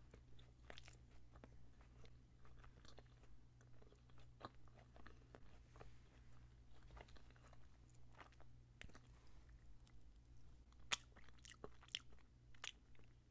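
Faint close-miked chewing of a soft frosted donut: small wet mouth clicks throughout, with a few sharper clicks near the end.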